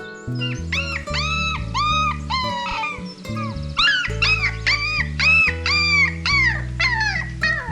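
An animal's short, high whining calls, each rising and falling in pitch, about two or three a second, over background music with a low bass line.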